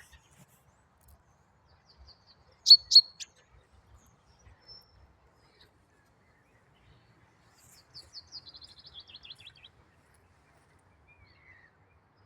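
Songbirds calling: a sharp, loud double call about three seconds in, then a quick run of notes falling steadily in pitch, about two seconds long, near the end.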